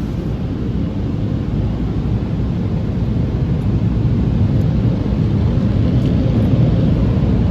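Tunnel car wash equipment heard from inside the car: a steady low rushing noise, muffled by the car body, that grows slowly louder.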